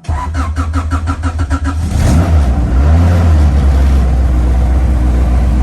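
Honda Civic EG hatchback's engine cold-started: the starter cranks it over in even strokes, about five a second, for nearly two seconds, then it catches with a brief rev and settles into a steady run.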